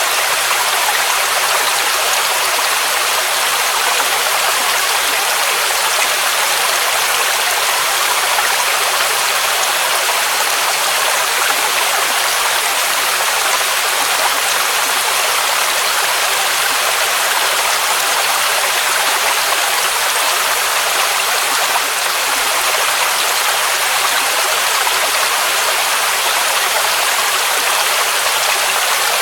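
Waterfall rushing: a steady, even hiss of falling water with little low rumble.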